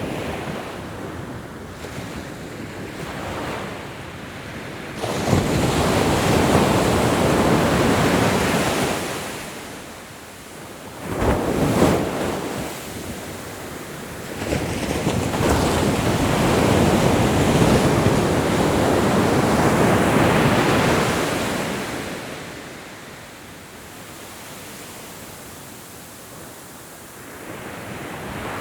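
Ocean waves breaking and washing on a shore, swelling and fading in slow surges: one break about five seconds in, a short surge near twelve seconds, and a long wash from about fifteen to twenty-two seconds, quieter in between.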